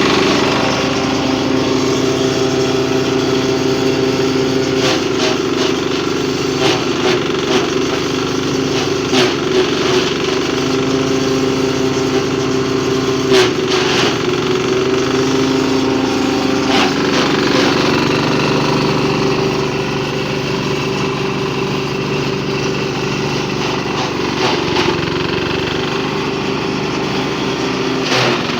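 A 10 hp diesel engine running steadily under power, driving a chaff cutter. Short sharp clacks break through now and then over the steady engine note.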